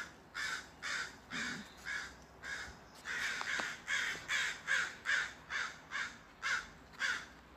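Crows cawing, a long run of short harsh caws about two a second, with several calls crowding together in the middle.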